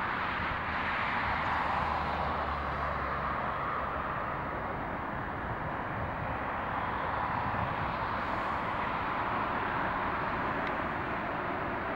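Jet airliner engine noise from a landing airliner: a steady rushing sound that swells and eases slightly, with a faint low hum in the first few seconds.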